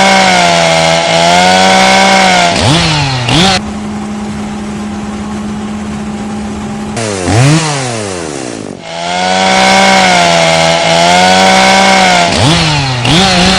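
Two-stroke chainsaw engine running at high revs while cutting, its pitch wavering under load. Twice it drops and swoops back up in pitch, and it runs at a steadier, quieter tone in between.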